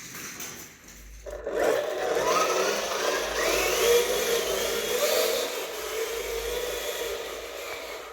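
A small electric motor running with a whirring gear whine that rises and falls in pitch, starting about a second in and cutting off suddenly at the end.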